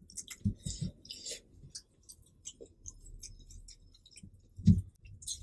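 Close-up chewing of a mouthful of cheesy instant noodles: wet mouth clicks and short soft smacks, busiest in the first second or so. A single dull low thump comes near the end.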